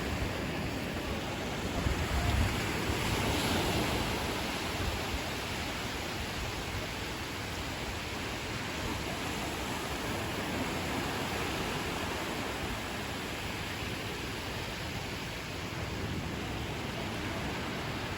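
Ocean waves washing onto the beach, a steady surf hiss with one louder wave surging a few seconds in, and some wind on the microphone.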